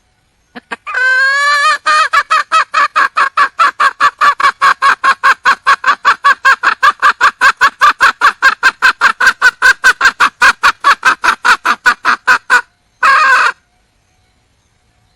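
Red junglefowl hen calling to attract a male: a short note, a wavering cry, then a long run of rapid clucks at about four a second for some ten seconds, followed after a pause by one harsher note.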